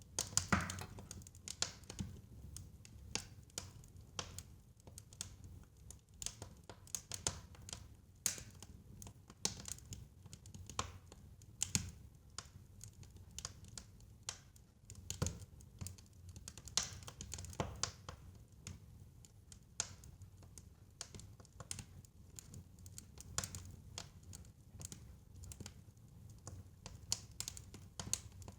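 Fire crackling in a fireplace: irregular pops and snaps, several a second and uneven in loudness, over a low steady rumble of the flames.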